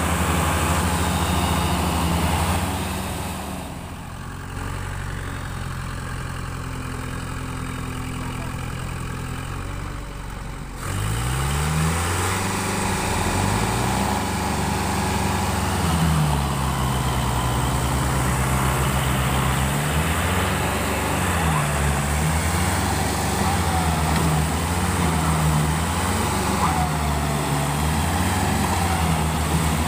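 Diesel tractor engine running, dropping to a lower, quieter note about four seconds in. About eleven seconds in it climbs in pitch, and from there its note repeatedly sags and rises again, as with changing throttle or load.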